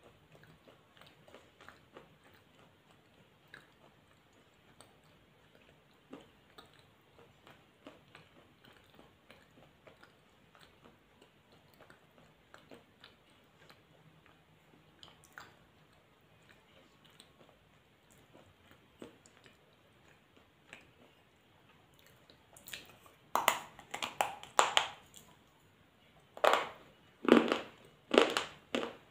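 A person chewing food close to the microphone: faint mouth clicks at first, then loud crunching bites, several in a row, from about three-quarters of the way in.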